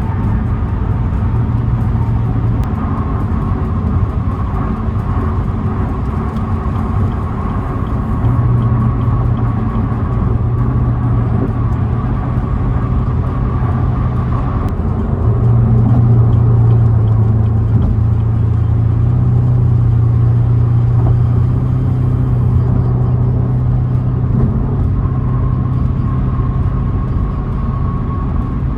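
Car cruising at speed on a highway: a steady low engine drone over tyre and road noise. The engine note rises slightly about eight seconds in and again about fifteen seconds in, and is loudest after the second rise.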